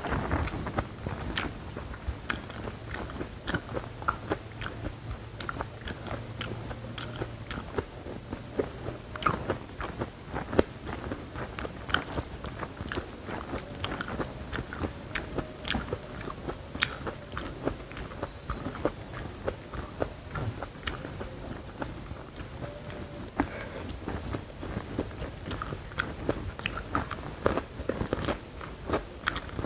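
Close-miked chewing of crunchy food, a steady run of crisp crunches and wet bites with no pause.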